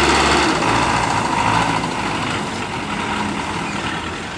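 Tractor diesel engines running hard under load while pulling a stuck, heavily loaded sugarcane trolley. The deep low rumble drops away about half a second in, and the overall sound then eases gradually.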